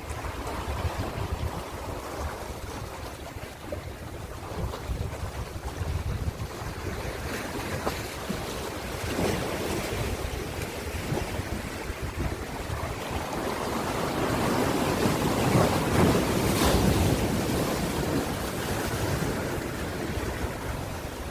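Ocean surf: a continuous wash of waves with a low rumble, swelling to its loudest about two-thirds of the way through as a bigger wave breaks, then easing off. Wind buffets the microphone.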